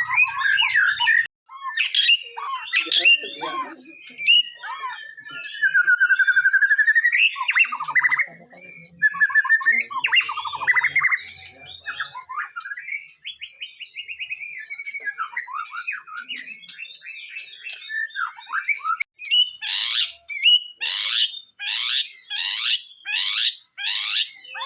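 White-rumped shama (murai batu) singing a long varied song of clear whistles, slurred glides and chattering notes. Near the end it breaks into a quick run of sharp falling calls, about three every two seconds.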